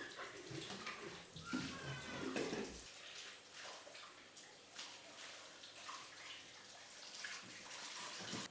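Water running steadily, with scattered faint knocks.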